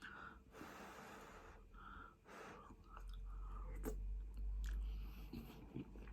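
A person chewing food close to the microphone, with wet mouth clicks and breaths. A low rumble joins in the second half.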